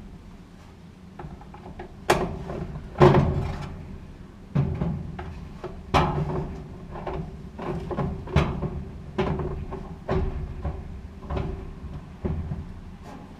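Irregular knocks and clanks of a GE gas dryer's metal parts being handled while its drive motor is fitted back in, about one every second, loudest about three and six seconds in, over a faint steady hum.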